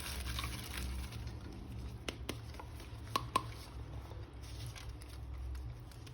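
Faint handling noises with a few small, sharp clicks, two pairs of them about a second apart, over a low steady hum.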